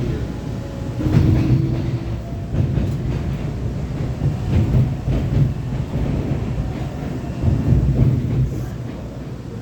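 Inside a new CRRC-built MBTA Orange Line subway car in motion: a steady low rumble of the train running on the rails, with scattered clicks and clacks and a brief faint whine about a second in.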